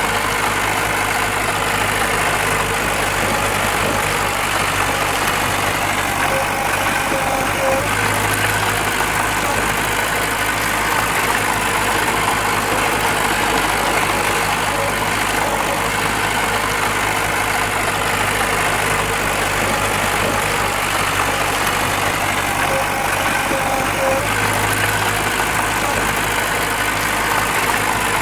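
Diesel engine of heavy earthmoving machinery running steadily, with a slight low swell about 8 seconds in and again near the end.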